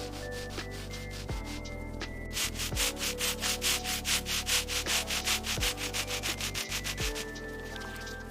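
Rapid back-and-forth sanding strokes, about six or seven a second and loudest in the middle stretch, over a low steady music bed.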